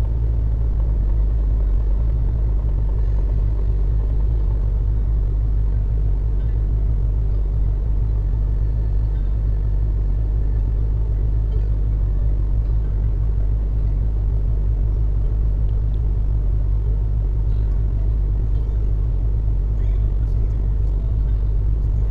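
Steady low rumble of a car idling while stopped in traffic, heard inside the cabin.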